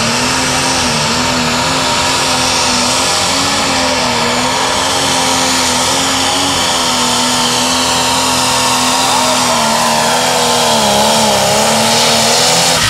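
Light limited super stock pulling tractor's diesel engine running at full power under load during a pull, loud and steady, its pitch wavering slightly as the load changes.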